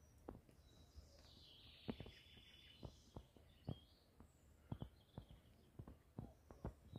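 Faint birdsong, with scattered soft clicks and knocks at irregular intervals; otherwise very quiet.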